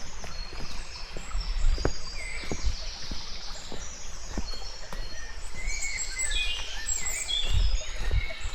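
Small songbirds singing and chirping in woodland, the calls busiest in the second half, over a low rumble with scattered footsteps.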